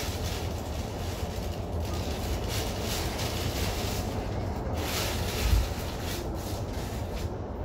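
E233-1000 series electric commuter train running between stations, heard from inside the front car: a steady low rumble of wheels on rails with a rushing noise over it, and one short low thump about five and a half seconds in.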